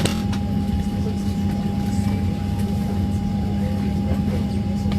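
Steady drone of an airliner's cabin: a low rumble with a constant hum and a thin, even high tone. There is a short click at the very start.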